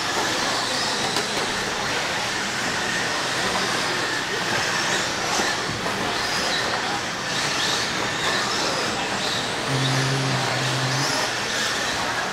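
Radio-controlled stock trucks racing around the track: a steady mix of electric motor whine and tyre noise. A short low hum comes in about ten seconds in.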